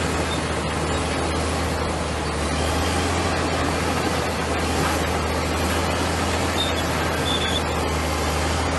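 Komatsu bulldozer's diesel engine running steadily under a constant noisy wash, with a low, even hum.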